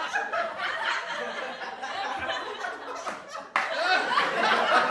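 Several people laughing and chuckling together, their voices overlapping. About three and a half seconds in, the sound cuts abruptly to a louder stretch of laughter, a splice between two recordings.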